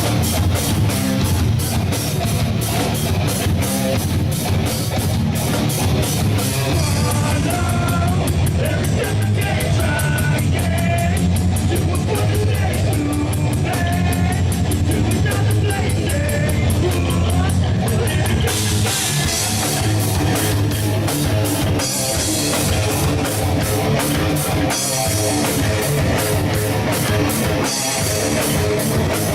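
Rock band playing live: drum kit keeping a steady beat with cymbals, under bass and electric guitars, with a melodic lead line through the middle.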